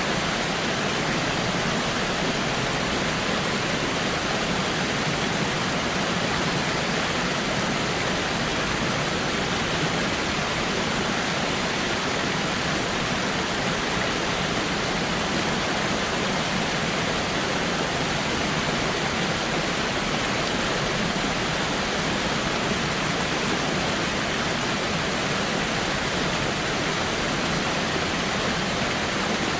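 Waterfall pouring: a steady, even rush of falling water with no change.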